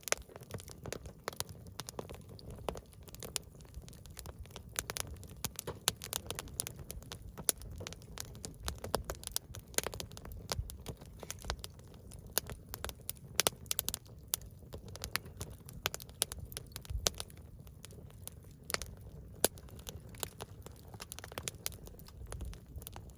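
Wood campfire burning, with many sharp irregular pops and crackles over a low steady rumble of the flames.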